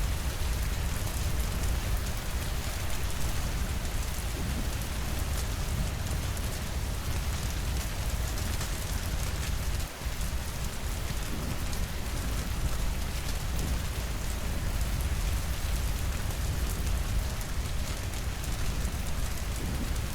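Steady heavy rainfall: a dense patter of drops over a deep, even rumble, with a brief dip in level about halfway through.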